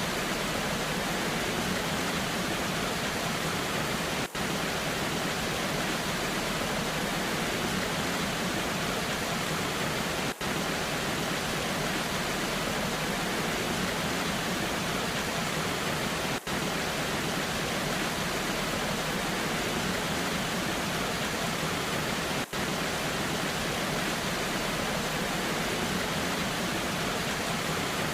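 Steady, even rushing of a waterfall in the rain, with a very short dip in level about every six seconds.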